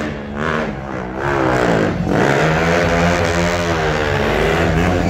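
KTM Duke motorcycle engine revving up and down under stunt riding. The throttle is chopped and reopened several times in the first two seconds, then the revs swing up and down.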